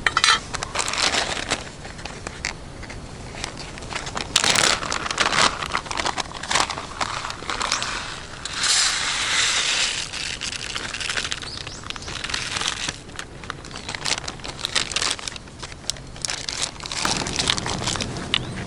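Irregular crinkling and crackling of something being handled, with many sharp clicks and a longer rustling stretch about halfway through.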